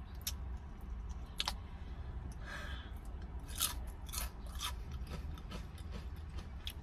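A chip being bitten and chewed close to the microphone: irregular sharp crunches over a low steady hum.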